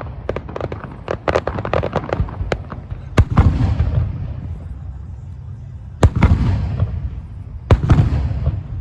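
Aerial fireworks: a rapid run of crackling reports for the first three seconds, then three heavy booms a few seconds apart, each trailing off in a rolling rumble.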